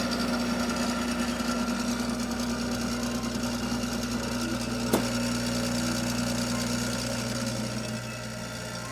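VBM espresso machine's pump running with a steady hum while pulling a shot of espresso, with one sharp click about five seconds in; the hum gets a little quieter near the end.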